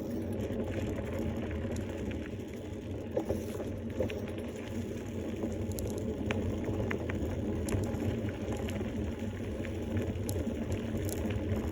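Steady rumble of wind and rolling noise on the microphone during a bicycle ride, with scattered light clicks and rattles from the bike.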